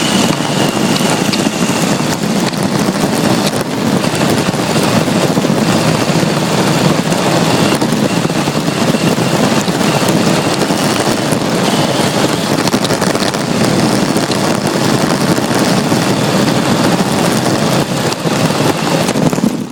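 Battery-powered RC drift car heard from a phone fixed to its rear chassis while it drives: a loud, steady rush of drivetrain, tyre and chassis rattle noise. A faint high whine sits over it in the first two seconds.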